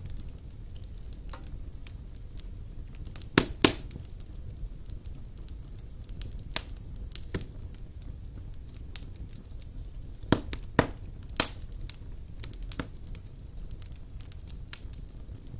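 Wood fire burning in a fireplace: scattered crackles over a low, steady rumble, with sharper pops, a pair about three and a half seconds in and a few more around ten to eleven seconds.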